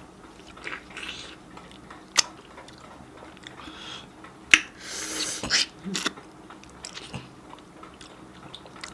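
Close-miked chewing and biting of juicy ripe mango, with a few sharp wet mouth clicks.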